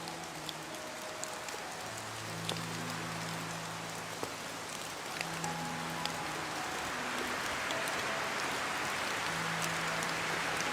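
Steady rain falling, with scattered sharp drop ticks and a hiss that grows a little louder in the second half. Soft, slow music of long held low notes plays underneath.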